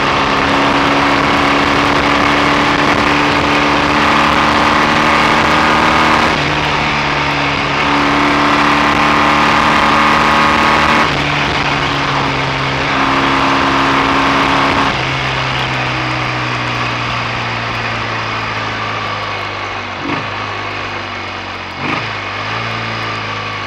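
BSA A65 650 parallel-twin motorcycle engine running under way, its note changing in steps and then easing to a lower, quieter note as the bike slows. A few short knocks come near the end. The engine has developed a misfire, which the rider later puts down to dirt in one carburettor, and the clutch is slipping.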